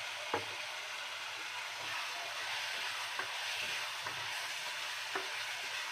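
Onion-tomato masala sizzling in a pot as raw potato wedges are stirred into it with a spatula, with a few light knocks of the spatula against the pot.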